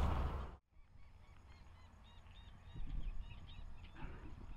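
Faint birds calling in a quick series of short, high calls. At the very start a burst of wind or handling noise cuts off abruptly.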